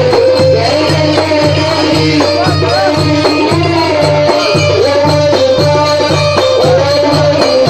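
Live Port Said simsimiyya folk music: a wavering melody over a steady, repeating low beat, with shaken rattle or tambourine percussion.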